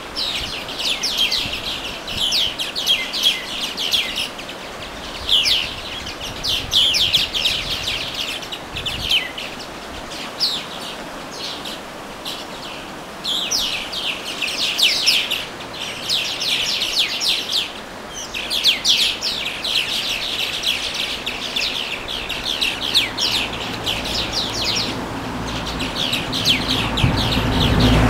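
Small songbirds singing in quick chattering phrases, one after another with short pauses, over a steady hiss. A low rumble builds in the last few seconds.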